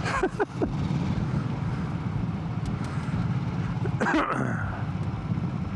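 Yamaha MT-07's parallel-twin engine running steadily while riding, with wind and road noise. A brief sharper sound comes about four seconds in.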